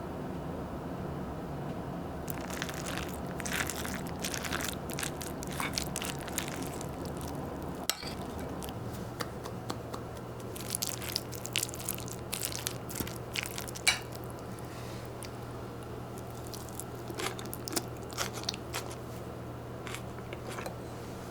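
A person eating crunchy food close to the microphone: crisp crunching bites and chewing in three spells, over a steady low hum.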